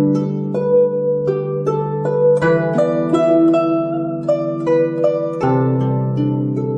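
Chinese zither (guzheng) music: a melody of plucked notes, several a second, each ringing out over held low notes.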